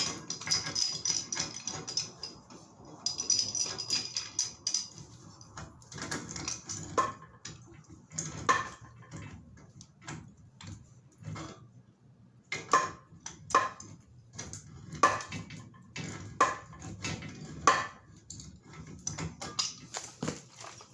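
Irregular metallic clinks and knocks, a few ringing briefly, from black iron gas pipe fittings and tools being handled.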